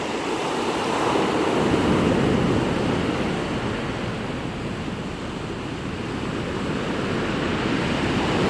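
Stormy sea: rough surf breaking on the shore in a continuous rush that swells loudest about two seconds in and again near the end.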